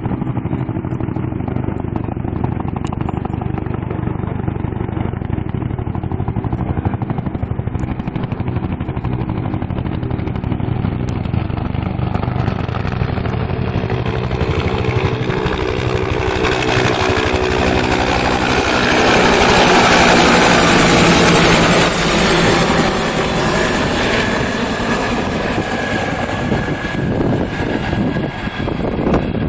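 Two helicopters flying overhead, their rotor and engine noise steady at first, then building to its loudest about two-thirds of the way through as they pass. After that the engine tones slide down in pitch as the helicopters move away.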